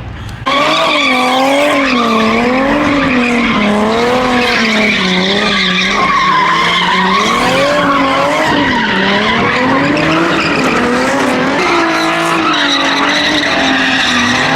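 A car spinning its tyres at high revs, its engine note swinging up and down about once a second with tyre squeal.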